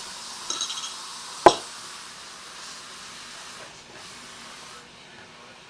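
Spray hissing steadily for nearly five seconds, with one sharp click about a second and a half in.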